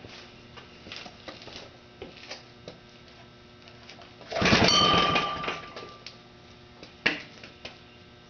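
Light handling clicks, then one pull on the starter of a 1948 Briggs & Stratton single-cylinder engine about four seconds in: a loud whirr of the flywheel spinning over, fading within about a second and a half without the engine catching. A sharp click follows near the end.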